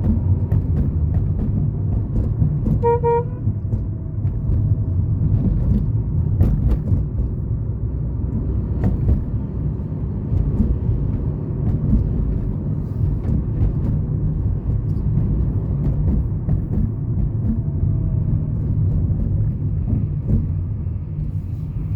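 Steady low rumble of street traffic, with a car horn giving a brief toot about three seconds in.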